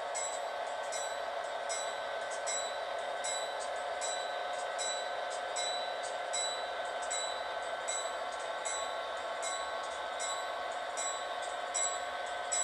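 Railway warning bell ringing steadily, about two strikes a second, with the rings running into one another.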